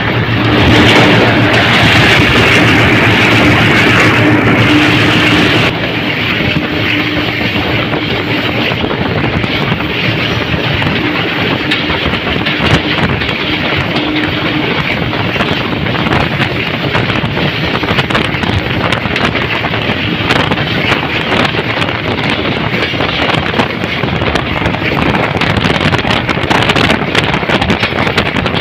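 Express passenger train running, heard from aboard a coach: a steady rush of wind with rattling and clicking from the wheels and carriage. It is louder for the first five seconds or so, then settles.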